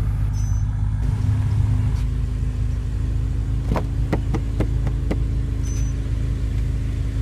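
BMW M5 F10's twin-turbo V8 idling steadily, heard from inside the cabin. About halfway through come a quick run of about five sharp clicks.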